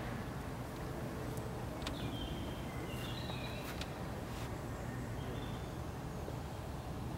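Quiet open-air ambience with a bird singing a short phrase of high whistled notes between about two and four and a half seconds in. A few faint clicks are heard over it.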